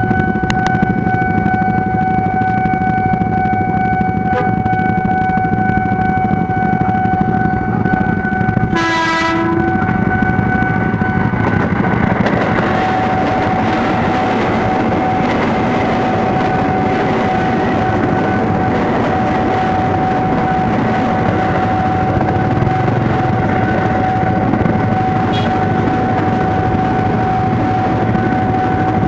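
Level-crossing warning signal sounding a steady tone throughout. About nine seconds in, a KRL Commuterline electric train gives one short horn blast, and from about twelve seconds the train runs across the crossing with continuous wheel-and-rail noise.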